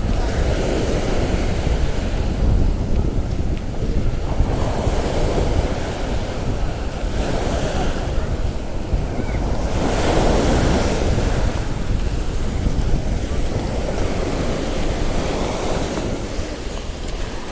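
Sea of Azov surf washing onto the beach in repeated swells every few seconds, with wind buffeting the microphone as a constant low rumble.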